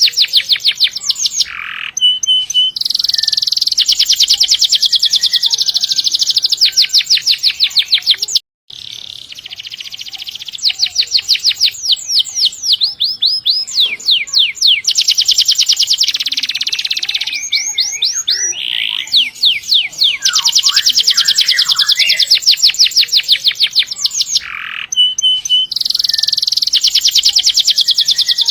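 Domestic canary singing a long, loud rolling song of rapid trills, with fast runs of repeated notes that change speed and pitch from phrase to phrase. The sound drops out for a split second about eight seconds in.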